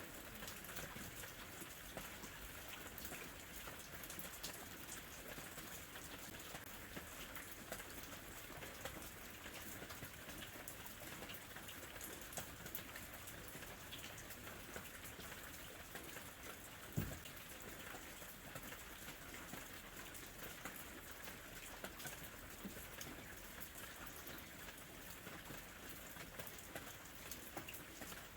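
Gentle rain falling steadily, a fine patter of drops on surfaces, with one sharper knock about seventeen seconds in.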